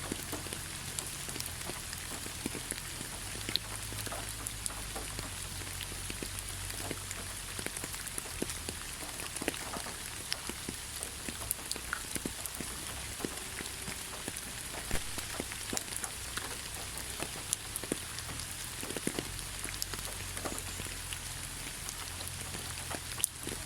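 Steady rain falling in a forest, an even hiss with many separate drops ticking sharply close by.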